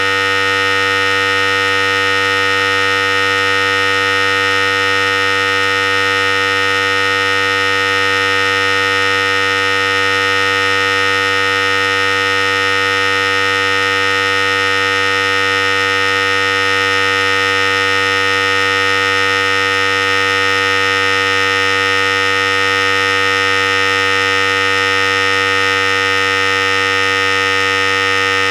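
Philips Series 5000 hair clipper running with a steady, even electric buzz.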